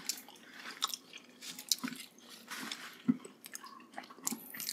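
Close-miked wet chewing and biting of soft, sticky braised pork leg, with irregular squishy smacks and small clicks as fingers pull at the meat.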